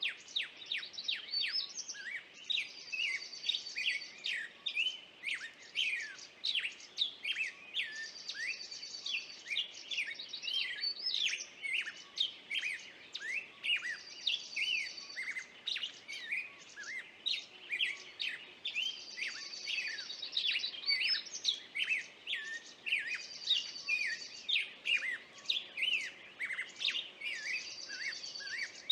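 Songbirds chirping continuously in rapid short notes, with a brief high trill that repeats every five or six seconds.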